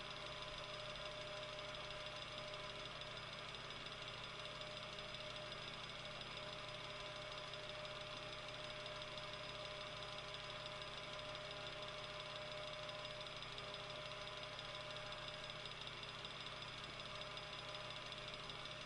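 Metal table fan running steadily: an even whir of the blades with a constant motor hum and a few fixed tones.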